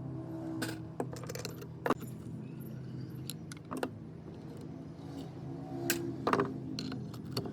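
Small metal parts clinking and tapping as they are handled, a dozen or so scattered sharp clicks, over a steady low hum.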